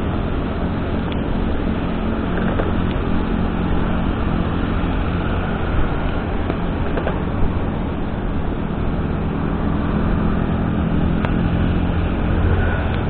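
Steady vehicle driving noise: a low engine and tyre rumble with road noise over it and a few faint ticks.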